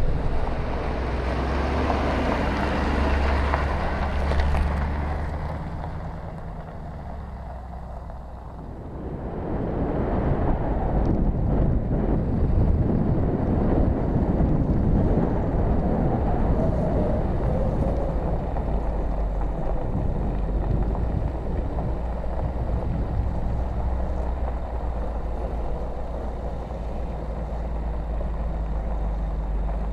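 A vehicle engine running steadily, with wind buffeting the microphone. The sound dips for a few seconds about a third of the way in, then comes back.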